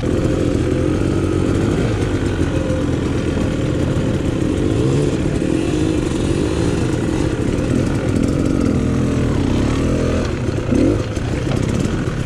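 Dirt bike engine running, its revs rising and falling, with a quick rev-up about eleven seconds in.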